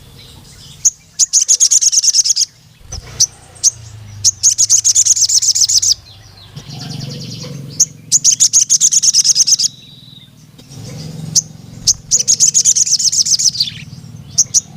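Sogon (ruby-cheeked sunbird) singing loud 'cuit cuit' song: rapid high trilled bursts of about a second and a half each, five times, with single sharp chirps between. This is the male's long 'nembak' calling used to provoke rival males.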